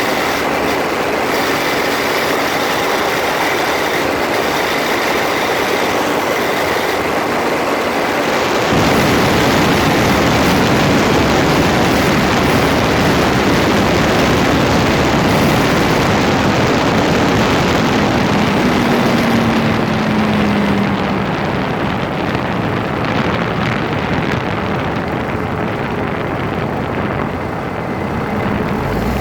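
Grinding noise and drivetrain noise picked up right at a Land Rover Freelander 2's front differential while the car runs. It is a loud, steady noise that grows heavier in the low end about nine seconds in. A short falling tone comes just before the twenty-second mark, and the sound dulls toward the end.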